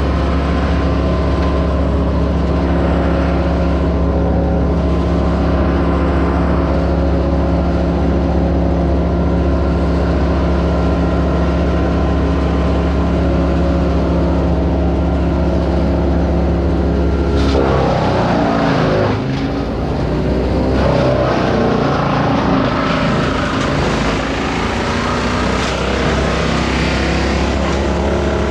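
Engine of tree-removal machinery running steadily, then from a little past halfway its pitch drops and wavers up and down as it comes under load.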